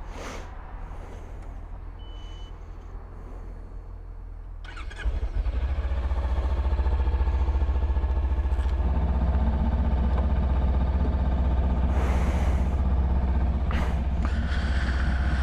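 A motorcycle engine starts about five seconds in and then idles steadily.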